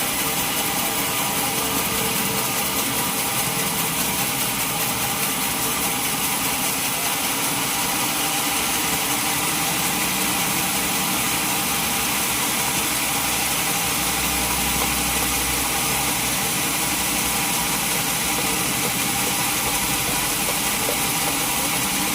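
Sawmill machinery running steadily with a constant engine drone that holds an even pace throughout.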